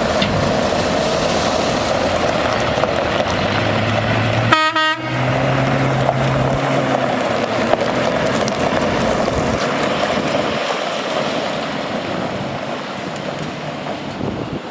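Cummins ISB diesel of a Freightliner M2 dump truck running, with one short horn blast about four and a half seconds in; the sound slowly fades toward the end.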